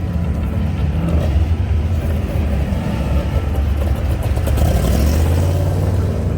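A car engine running with a loud, low, steady rumble.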